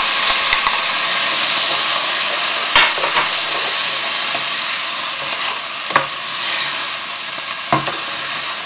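Chicken, tomatoes and herbs sizzling with a steady hiss in a hot pan as chicken stock is poured in and stirred with a wooden spoon, the spoon knocking against the pan a few times.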